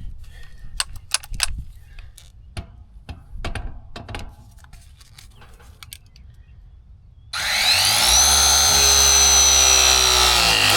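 Scattered clicks and knocks of tools and parts being handled. Then a power tool's motor starts about seven seconds in, winds up in pitch and runs steadily to the end.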